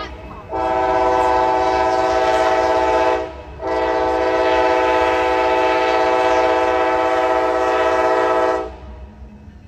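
Amtrak passenger locomotive's multi-chime air horn blowing, the end of one blast, then a long blast of about three seconds and a longer one of about five seconds, with short breaks between. When the horn stops near the end, the rumble of the passing train carries on.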